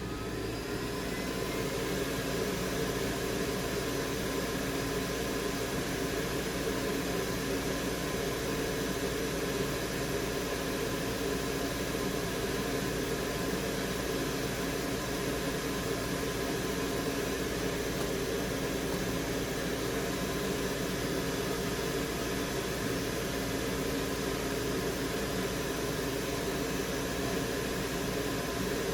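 Steady rushing air and fan noise from electronics rework tools, a hot air rework station and a fume extractor, spinning up over the first couple of seconds and then holding level.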